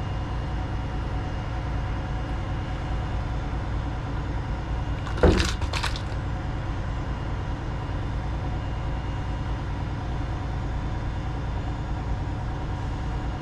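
Steady low mechanical hum, like an engine running, with a sharp click about five seconds in and a second, smaller click just after.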